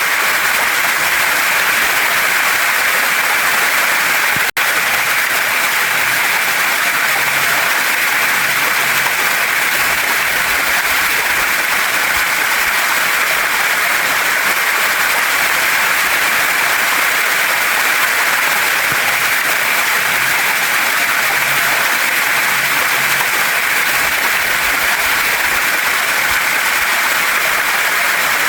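Waterfall and stream water rushing over rocks: a steady, even hiss, with a momentary dropout about four and a half seconds in.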